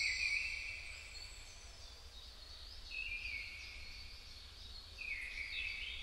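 Wild songbirds singing in woodland: short, high whistled phrases, one fading away in the first second, another about three seconds in and more from about five seconds in, over a low steady rumble.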